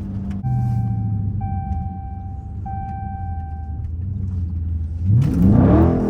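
Dodge Scat Pack's 6.4-litre HEMI V8 running off the throttle with a low, steady rumble, then revving up with a rising pitch about five seconds in as the car accelerates on snow. A steady high tone sounds over the engine for about three seconds early on.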